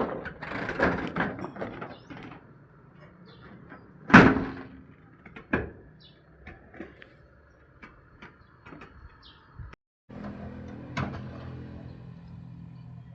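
Scattered knocks, taps and scraping of hand work on a roof gutter, with one loud sharp knock about four seconds in and a smaller one about a second later.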